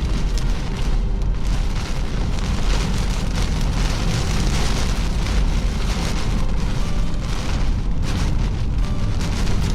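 Thunderstorm wind of about 40 mph gusting over the microphone with rain falling: a loud, steady low rush with a hiss of rain.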